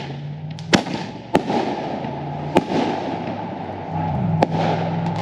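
A consumer firework going off: four sharp bangs spread over about four seconds, with crackling between them.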